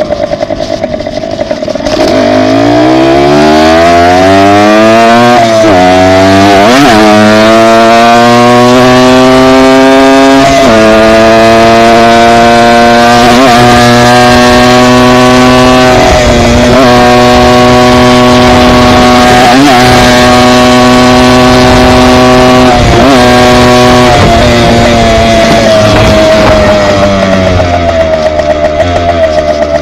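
Dirt bike engine, very loud and close, accelerating up through the gears: the pitch climbs and drops back at three shifts in the first ten seconds. It then holds a steady cruising pitch with a few brief throttle dips before winding down near the end.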